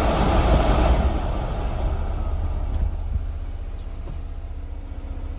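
1995 Honda Acty mini truck running, a steady low rumble with a louder rushing noise that fades away over the first two seconds and a few light clicks.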